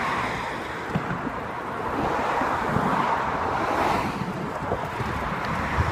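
Wind rushing over the microphone of a bicycle rider crossing an exposed road bridge, a steady noisy haze that swells a little about three to four seconds in.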